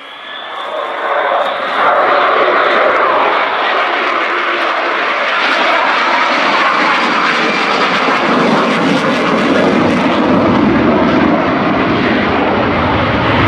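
Lockheed Martin F-35B Lightning II's single Pratt & Whitney F135 turbofan, a loud jet roar that builds over the first two seconds and then holds steady, deepening in the second half as the aircraft flies past.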